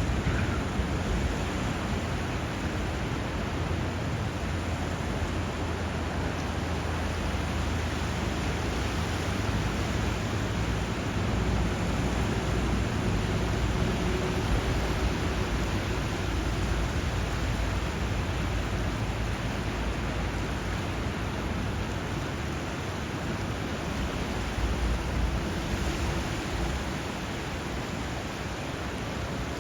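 Steady rushing of water where a river meets the sea: surf and flowing current blended into an even, unbroken wash with a deep low rumble underneath.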